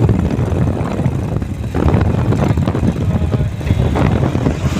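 Eicher 3019 truck's diesel engine running, a continuous low rumble.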